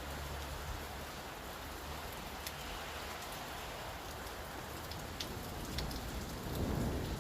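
Steady rain falling on hard city surfaces, with a few sharper drops ticking through it. A low rumble swells near the end.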